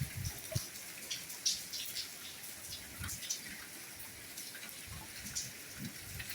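Soft rain falling, a steady light patter with many scattered drips and drop taps.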